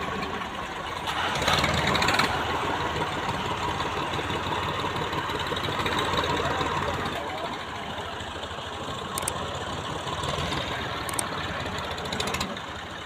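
A vehicle engine idling steadily, louder for about a second near the start.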